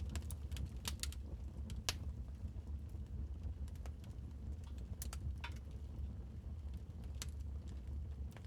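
Wood fire crackling in a fireplace: scattered sharp pops and snaps, one loudest about two seconds in, over a steady low rumble of the flames.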